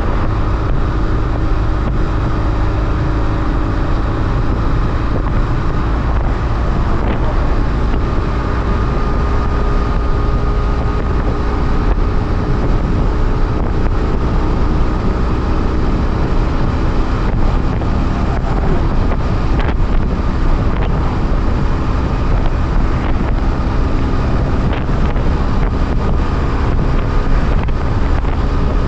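BMW F800R's parallel-twin engine running on the move, its pitch drifting slightly up and down. Heavy wind rush on the microphone lies over it throughout.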